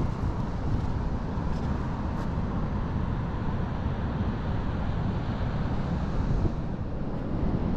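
Wind buffeting the microphone: a steady rumbling rush with no distinct events.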